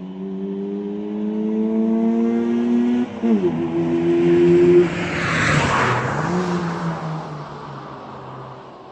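Honda Civic's D16Y7 1.6-litre SOHC four-cylinder, stock apart from a cold air intake, revving up under hard acceleration. Its pitch drops suddenly about three seconds in at an upshift and climbs again. The car passes by loudly around the middle with a dip in pitch, then fades away.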